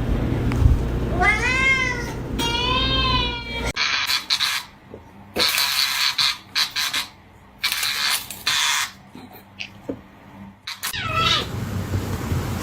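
Cat meowing: two long, drawn-out meows that rise and then fall in pitch. Then a run of short hiss-like noise bursts, and near the end one more meow falling in pitch.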